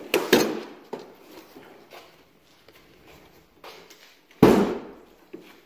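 Handling noise as something is moved: two loud clunks about four seconds apart, with faint rustling and shuffling between.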